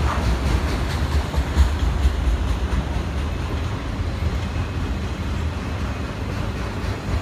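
Freight train of autorack cars rolling past close by, with the steady low rumble of steel wheels on rail. A few sharp wheel clacks come in the first two seconds.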